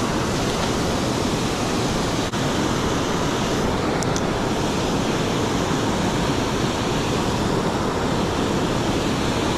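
Steady rush of water pouring over a river spillway, an even, unbroken roar of white water.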